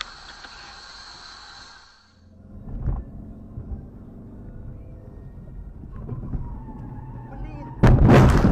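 Low steady vehicle rumble, then near the end a car crash: two very loud impacts about a second apart.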